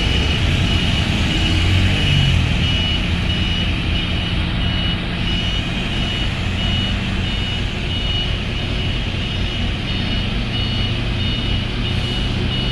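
Heavy diesel tanker trucks labouring up a steep incline in convoy, their engines running under load, with a brief rise in engine pitch a couple of seconds in. A high beep repeats evenly over the engine noise the whole time.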